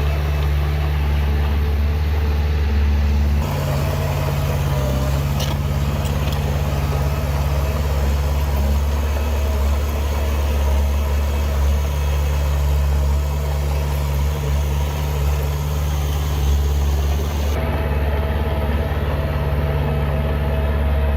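Heavy diesel engine of earthmoving machinery running steadily at low revs. The engine note changes abruptly about three and a half seconds in and again near the end.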